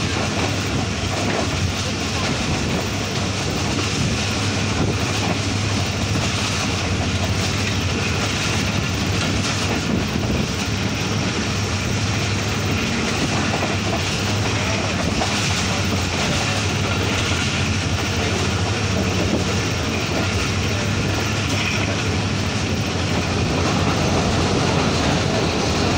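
Running noise of the Tezgam Express passenger train at speed, heard from an open coach window: wheels rolling on the rails with wind rushing past, steady throughout and a little louder near the end.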